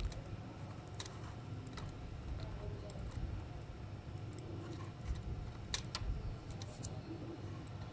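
Scattered small clicks and taps of small toy parts and tools being handled during repair, over a steady low hum.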